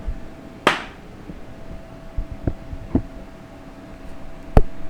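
Several separate knocks and clanks of transmission parts and tools being handled: a brief scrape about a second in, a few light knocks, and one sharp, loud knock near the end, over a steady electrical hum.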